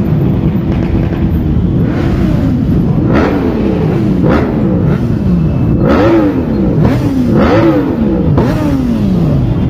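Motorcycle engines revved again and again over a steady engine din. From about three seconds in, the pitch climbs and drops roughly once a second.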